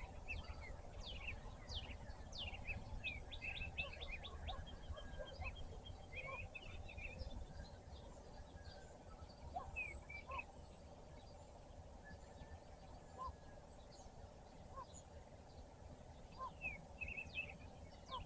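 Several wild songbirds chirping and calling over a faint low rumble, busiest in the first half and sparser later, with a brief trill about four seconds in.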